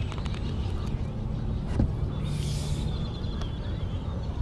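Steady low rumble on a lake, with a short splash of water about two seconds in and faint high bird calls.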